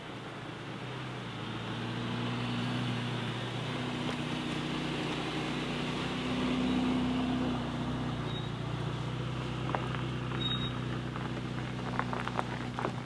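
Mercedes-AMG GT Black Series twin-turbo V8 running at low revs, a steady low engine note that grows louder over the first few seconds and then holds. A few sharp ticks come in near the end.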